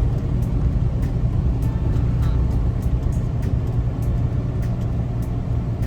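Steady low drone of a semi truck's engine and road noise heard inside the cab while driving, with faint light ticks scattered through it.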